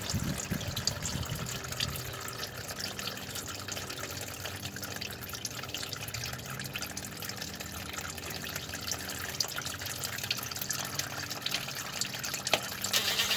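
Transmission fluid draining out of a Nissan Altima's CVT into a catch pan, a steady trickle with fine splashing drips.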